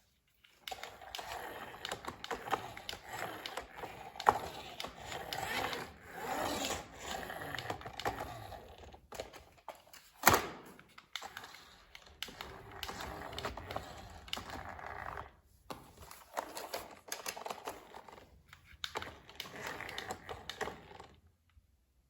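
Hands unboxing an RC toy: packaging and plastic parts rustle and click, with one louder knock about ten seconds in. The handling stops about a second before the end.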